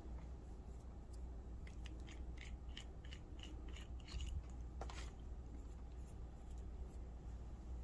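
A run of small, light clicks and scrapes, then a sharper click about five seconds in: a fountain pen and its parts being handled while it is filled with ink.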